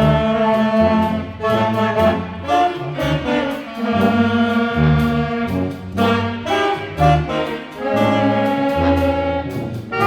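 Brass-band music: several brass instruments playing together over a low bass line, with notes changing every second or so.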